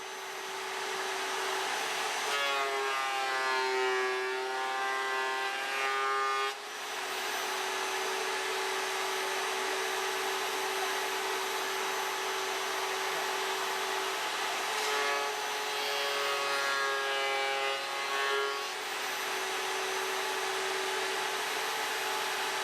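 Vevor wood planer running steadily. Twice, for about four seconds each, its pitch shifts as a board is fed through the cutter.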